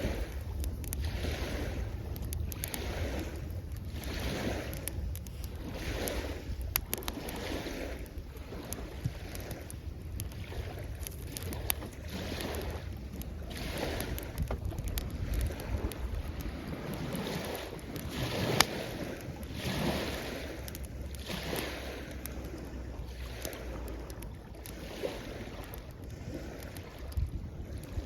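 Small waves washing in and drawing back along the shoreline, swelling every second or two, while a wood campfire crackles with sharp pops, one louder snap about two-thirds of the way through. Wind buffets the microphone with a low rumble.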